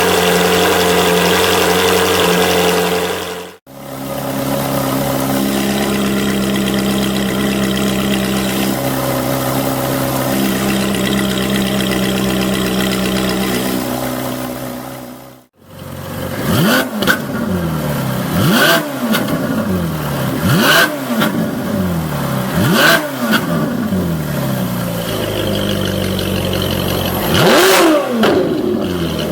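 Ferrari 458 Italia's 4.5-litre flat-plane V8, breathing through a Fi valvetronic exhaust, runs steadily for the first half. It is then blipped over and over, about every two seconds, each time with the revs rising and falling back. Near the end comes a louder rev as the exhaust valves open.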